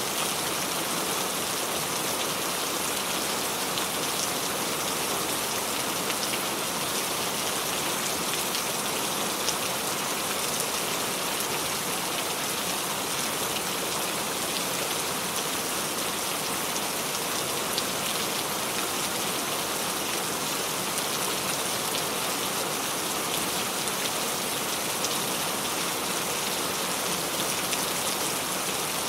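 Steady rain falling on a surface: an even hiss of drops with small scattered patters.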